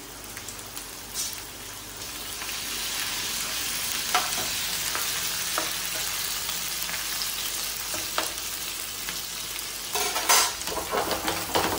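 Sliced onions, garlic cloves and whole spices sizzling in oil in a non-stick frying pan. The sizzle grows louder about two seconds in, with scattered taps and scrapes of a slotted spoon stirring, and a few sharper knocks near the end.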